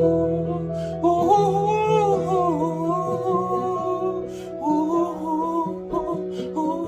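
A voice humming a wavering line that glides up and down between notes, a vocal exercise for building resonance, over guitar backing music with steady held chords.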